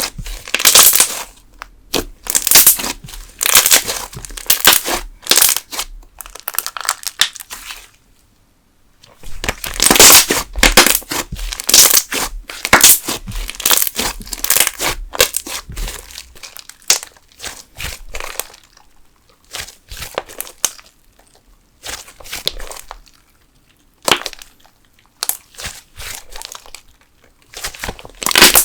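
Thick candle slime being squished and stretched by hand, giving bursts of crackling, popping air bubbles, with a brief pause about eight seconds in and sparser pops later on.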